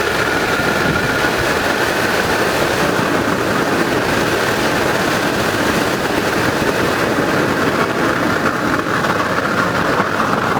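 Waste oil burner built from a car muffler, running with its air blower: a loud, steady roar of burning oil and forced air. A faint high whine in it fades out about halfway through.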